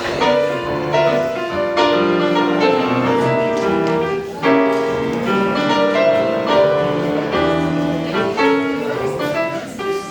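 Piano music: notes and chords struck and left to ring, a new chord every second or two.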